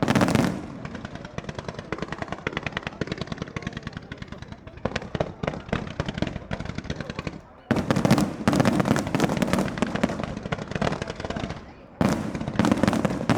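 Fireworks display: rapid, dense crackling from crackle shells, with louder bursts at the start, about eight seconds in and again about twelve seconds in.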